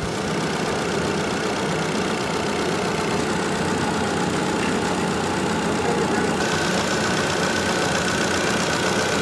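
Chevrolet Tornado pickup's four-cylinder petrol engine idling steadily, heard with the hood open; a faint steady high whine joins about two-thirds of the way through.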